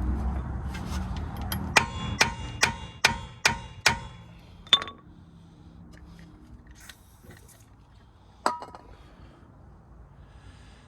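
Hammer striking steel: a quick run of six ringing metallic blows, then two single blows a few seconds apart. This is the work of freeing the driveshaft from the wheel hub.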